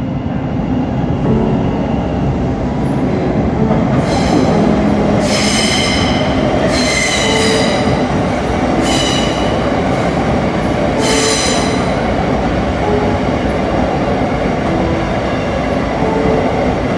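Thameslink Class 700 electric multiple unit running into and past a covered underground platform, a loud steady rumble of wheels on rail. Between about four and eleven seconds in, its wheels give five short high-pitched squeals.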